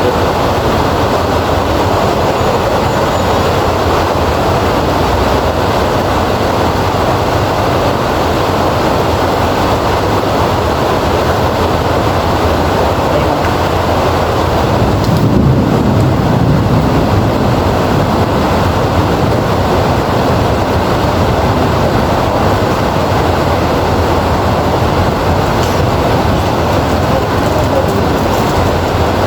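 Heavy rain falling steadily, with a low rumble of thunder about halfway through.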